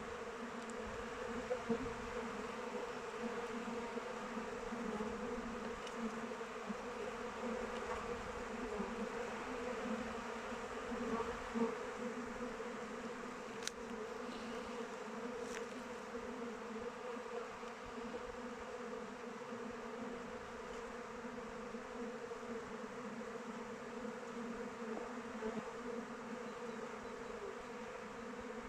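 Swarm of honeybees buzzing steadily as they fly around their hive: a dense, even drone of many wings, with a couple of faint ticks about halfway through.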